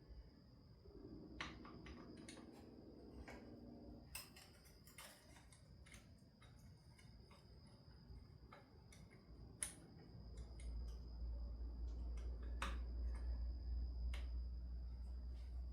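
Scattered light metallic clicks and taps of hand tools as a puller is fitted and worked. A short low hum sounds between about one and four seconds in, and a low rumble comes in about ten seconds in and stays.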